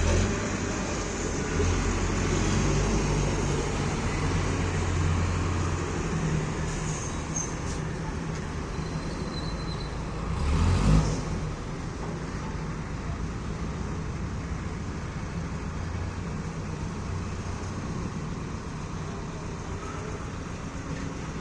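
A heavy vehicle's engine running steadily, with road-traffic noise around it, and a louder swell that rises and falls about ten seconds in.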